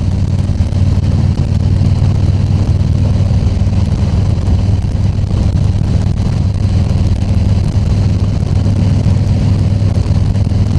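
2020 Harley-Davidson Tri Glide Ultra's Milwaukee-Eight 114 V-twin running steadily on the road, with wind rushing over the helmet microphone.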